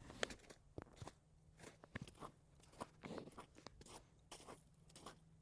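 Faint, irregular crunching footsteps on snow.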